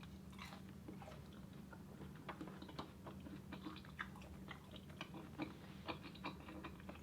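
Faint, soft chewing with small wet clicks of the mouth, several times a second, close to the microphone.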